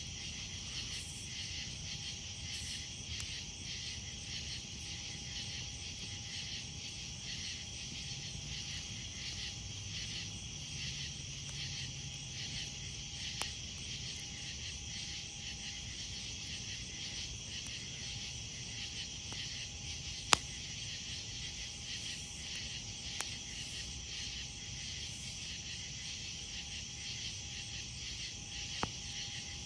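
Night insects calling in a steady, pulsing chorus, with a campfire burning underneath and popping sharply four times, loudest about twenty seconds in.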